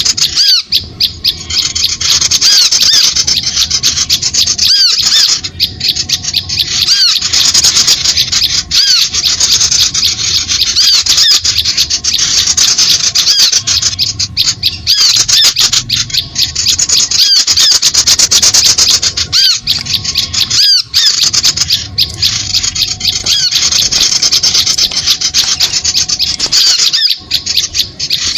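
Bird-trapping lure recording (suara pikat): a loud, unbroken mass of rapid, high, squeaky chirps and calls from small birds, with several brief breaks where the recording is cut.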